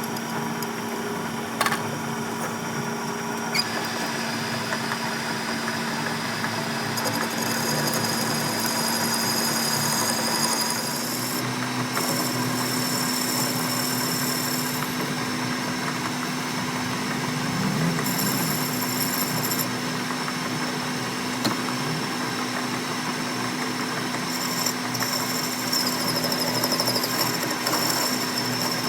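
A motor running steadily with a constant low hum, with a few sharp clicks and spells of high-pitched hiss coming and going.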